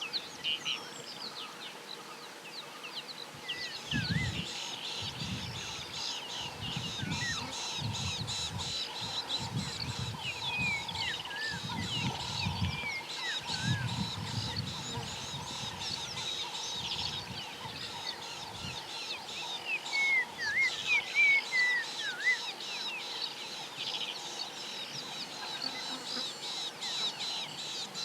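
Several wild birds calling over each other in a dawn-chorus mix, with short whistled, sliding notes and some harsher, fowl-like calls, loudest about two-thirds of the way through. A fast pulsing insect chorus runs underneath, and irregular low rumbles come and go during the first two-thirds.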